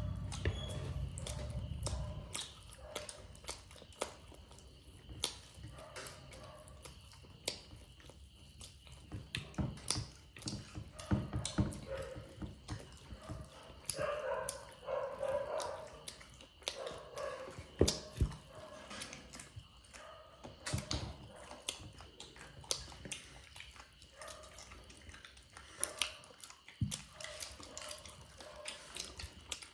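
Close-up eating sounds: irregular wet smacks, clicks and crunches of someone chewing chicken and cucumber.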